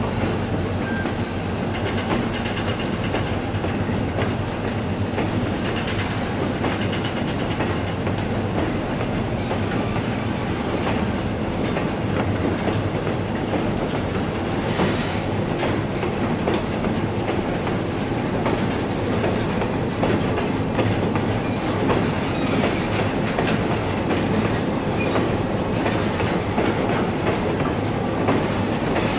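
Freight train wagons rolling slowly by, with wheels clattering over rail joints and the odd faint squeal. A steady high cicada chorus rings over it throughout.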